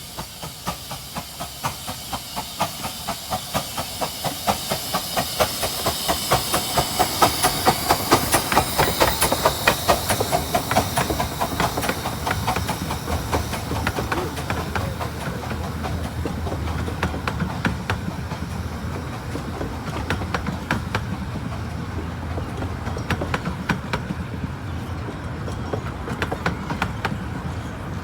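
Romney, Hythe & Dymchurch Railway's 15-inch-gauge steam locomotive No. 8 Hurricane arriving with its train: a rapid run of wheel clicks over the rail joints with steam hissing, growing louder over the first eight seconds or so, then settling steadier as it draws in.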